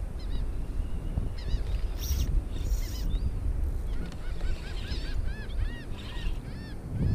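Birds calling in quick series of short, arched, honk-like notes, busiest in the second half, over a steady low rumble of wind and water.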